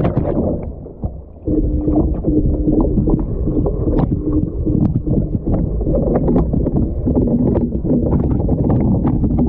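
Washing machine running, heard from inside the drum by a GoPro being washed: water churning with a low rumble and scattered knocks as the camera tumbles. A steady hum sets in about a second and a half in.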